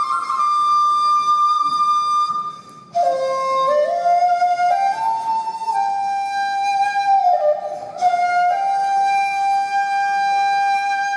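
A flute plays the instrumental interlude of a Japanese folk song, a melody of long held notes with small ornamental turns. It breaks off briefly about three seconds in, then comes back lower, and starts a new phrase about eight seconds in.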